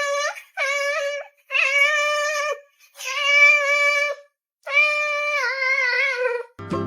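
Cat meowing loudly: a run of long, drawn-out meows, one after another with short gaps. Plucked-string music comes in near the end.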